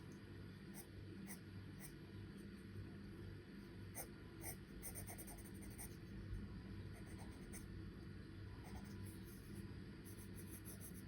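Charcoal scratching on paper in short drawing strokes, some single and some in quick runs, over a faint steady low hum.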